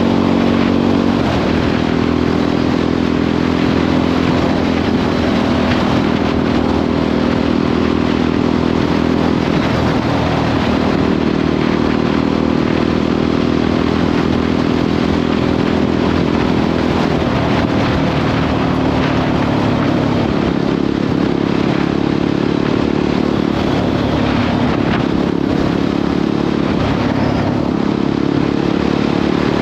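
Jawa 42 motorcycle's single-cylinder engine running at cruising speed on the highway, its note dipping and rising again a few times with the throttle, under steady wind and road noise.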